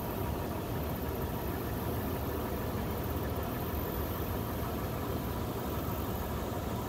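A vehicle's engine running steadily at low revs, a constant low drone with no change in level.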